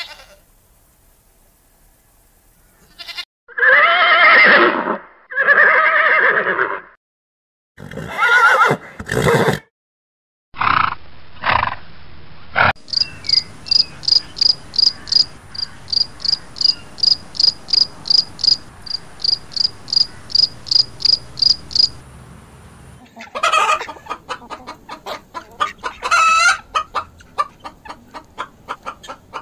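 A string of different animal calls with cuts between them: several long pitched bleat-like calls in the first third, then about nine seconds of rapid, even high chirping at around three pulses a second, then hens clucking near the end.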